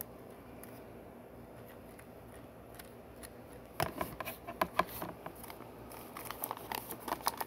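Small plastic Lego pieces clicking as they are handled and pressed into place. After a few quiet seconds comes a quick cluster of sharp clicks, then more scattered clicks near the end.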